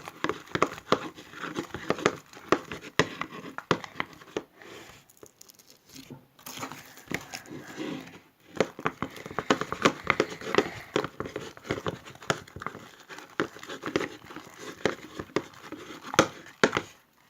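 Wet homemade slime being kneaded and squeezed by hand, a dense, irregular crackling and squelching with a couple of brief pauses. The slime is soaking wet from too much activator.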